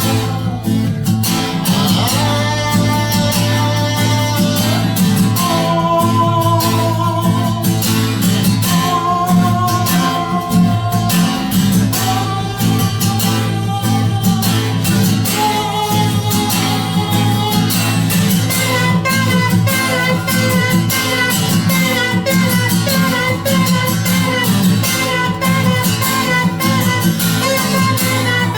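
Live acoustic guitar music from a bard song: guitar accompaniment with a sustained melodic line above it, playing steadily.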